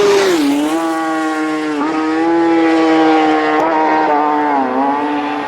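Racing motorcycle engine at high revs passing by, its note dropping sharply near the start as it goes past, then drawing away at a steady pitch broken by brief dips, a few times over.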